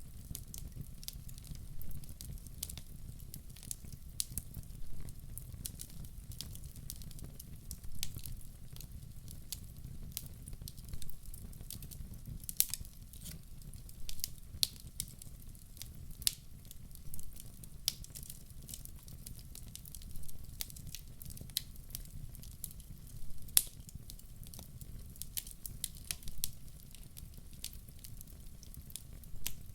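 Wood logs burning in a fireplace: a steady low rumble of flame with frequent sharp crackles and pops, a few louder snaps standing out.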